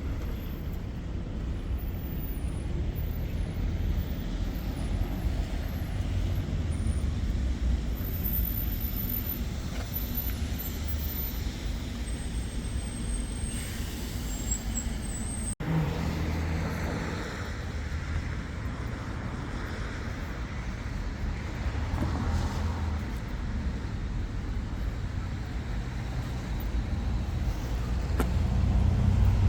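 Road traffic: motor vehicles running with a steady low rumble, briefly cut off about halfway through.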